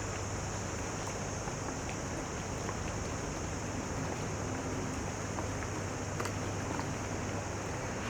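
Steady harbourside ambience: an even low hum under a constant high hiss, with a few faint clicks.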